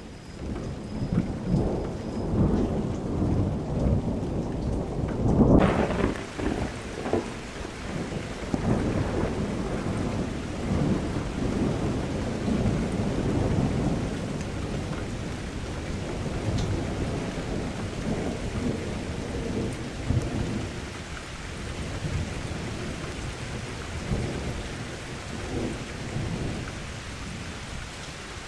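A long roll of thunder rumbling over steady rain, starting suddenly, loudest about five to six seconds in and slowly dying away. About six seconds in, the rain's hiss grows fuller and brighter.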